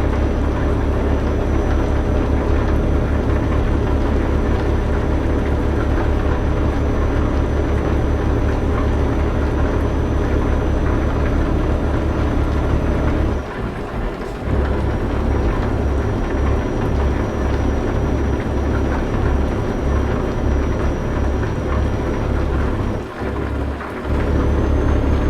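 Truck engine running with a steady low rumble and a faint high whine. The sound dips briefly about halfway through and again near the end, after which the rumble pulses unevenly.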